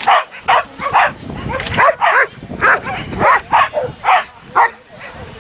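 A dog barking over and over, about two sharp barks a second, with a low rumble underneath for a couple of seconds in the middle.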